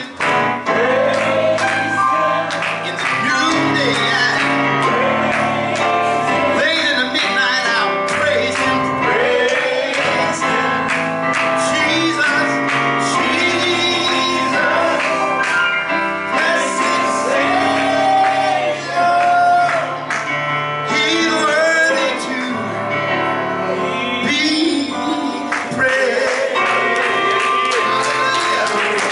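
Congregation and worship band singing a gospel praise song, with male and female voices over instrumental accompaniment.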